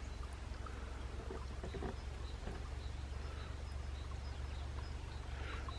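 Outdoor ambience at a drainage ditch: a steady low rumble under a faint even hiss of water, with a few faint, short high bird chirps.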